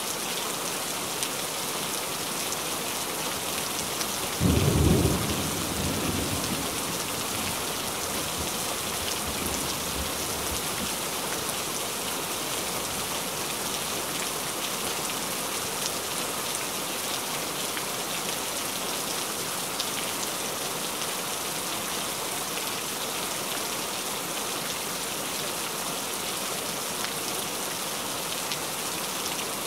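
Steady rain hissing, with a clap of thunder about four and a half seconds in that rumbles low and fades away over a couple of seconds.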